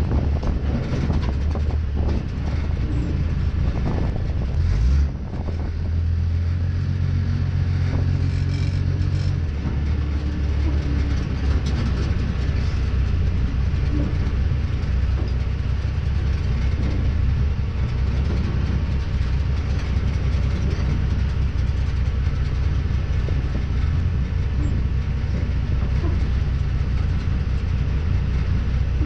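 1938 Ford truck rat rod's engine running steadily as the truck drives, heard from inside the cab, with a deep, constant low note. The sound briefly changes about five seconds in and shifts again near ten seconds.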